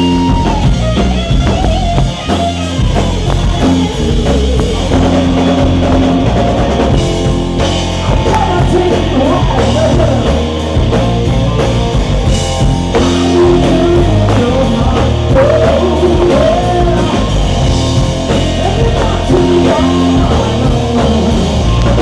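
Live rock band playing: drum kit, bass and electric guitar, with a lead line that bends and wavers in pitch over the steady beat.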